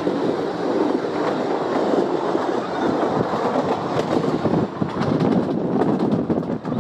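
Passenger train passing close alongside at speed, heard from the window of another moving train: a dense rumble and rattle of coaches with wheels clattering over rail joints. The loudness drops briefly near the end as the last coach goes by.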